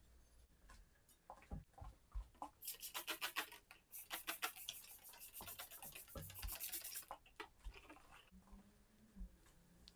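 Rapid rubbing strokes, about nine a second, hissy and regular, starting a few seconds in and lasting about four seconds with a brief break near the middle, amid small handling knocks.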